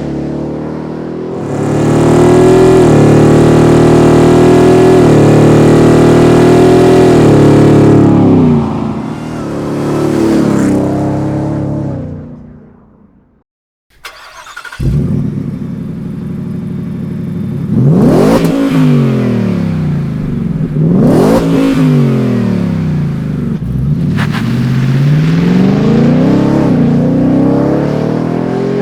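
Ford F-150 Raptor R's supercharged 5.2-litre V8 through a Borla aftermarket exhaust. It starts with a loud, steady high-rpm run that drops away and fades out. After a short break comes a series of revs that rise and fall in pitch.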